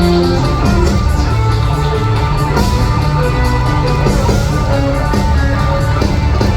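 Live rock band playing an instrumental break with loud electric guitar over bass and drums.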